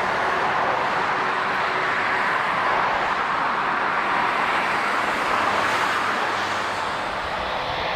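Jet airliner engine noise at the airport: a steady rush with no distinct events, holding level throughout.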